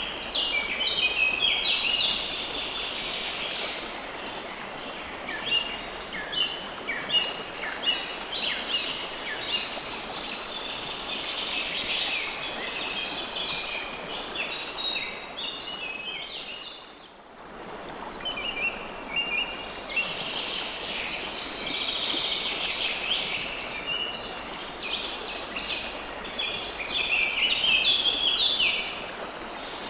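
River water flowing steadily under many small birds chirping busily. The whole sound briefly fades out and back in about two-thirds of the way through.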